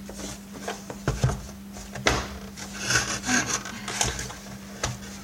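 Hard vacuum-cleaner housing parts and a screwdriver being handled, with irregular knocks, clicks and scraping rubs as the casing is worked apart by hand. A faint steady hum runs underneath.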